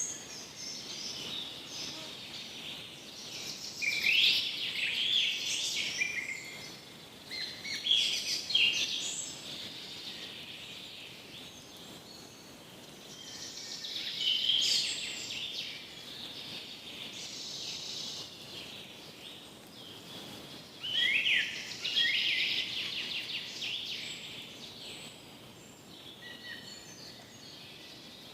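Songbirds chirping and trilling in bouts, louder for a few seconds at a time, over a faint steady hiss of breeze.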